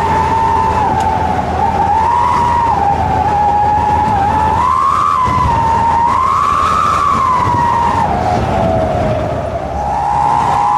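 Wolf-howl exhaust whistle ('knalpot srigala') sounding a continuous siren-like tone over the engine's rumble, its pitch rising and falling with the throttle; the pitch sinks lowest and the sound eases briefly near the end, then climbs again.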